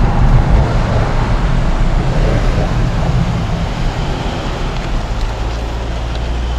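Mercedes-AMG E63 S 4MATIC+ with its twin-turbo V8 rolling up and pulling to a stop. Engine and road noise ease off and settle into a steady low idle near the end.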